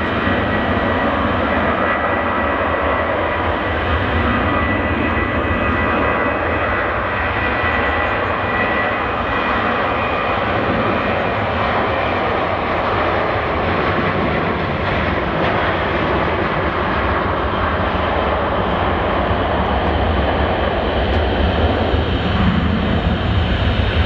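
Boeing 737 jet engines at departure power: a loud, steady rushing noise with a thin whine in the first several seconds, growing slightly louder near the end.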